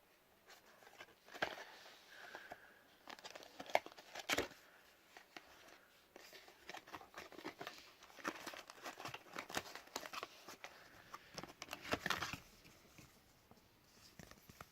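Packaging being opened by hand: crinkling and tearing of plastic and paper wrapping, with scattered sharp clicks and taps, dying away near the end.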